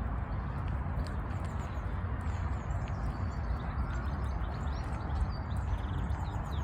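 Outdoor bird calls: faint, short chirps over a steady low rumble of wind on the microphone.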